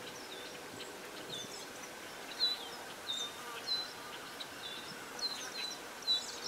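Small birds chirping: short, high chirps repeating about once or twice a second over a faint steady outdoor background.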